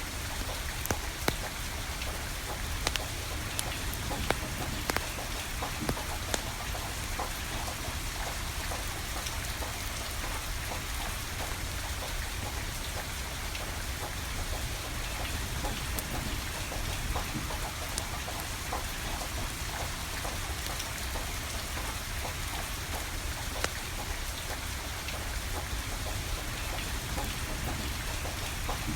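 Steady rainfall, with a few sharp pops from a crackling wood fire, most of them in the first several seconds.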